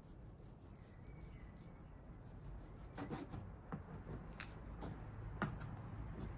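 Faint, scattered clicks and soft small noises of someone eating a tasting bite: utensil and mouth sounds over a low room hum.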